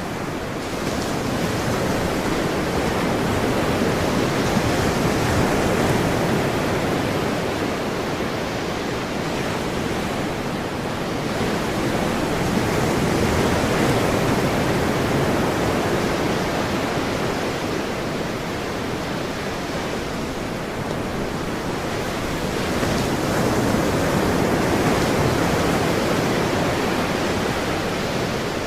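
Ocean surf: a continuous wash of waves that swells and eases in slow surges, three of them about ten seconds apart.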